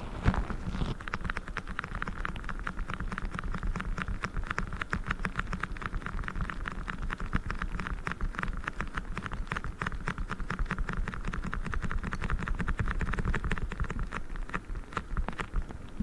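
Orange Orbeez water beads being handled, a dense, rapid patter of many small clicks that goes on without a break.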